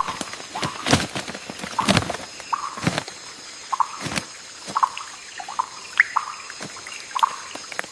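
Irregular sharp clicks and knocks, about one or two a second, with short squeaky chirps between them, over a faint steady high-pitched whine.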